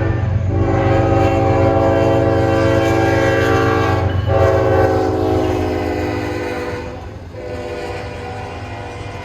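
Diesel locomotive horn sounding long blasts, with short breaks about four seconds in and again about seven seconds in, over the steady low drone of the passing train; the horn fades somewhat toward the end.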